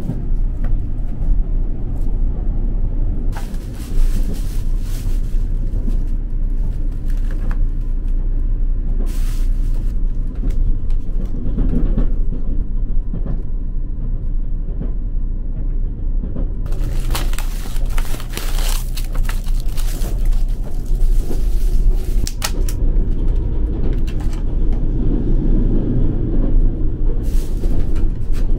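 Steady low rumble of the Nichirin Seagaia express train running, heard from inside its compartment. Over it, plastic rustles and crinkles several times as a carrier bag and food packaging are handled, the longest spell about two thirds of the way through.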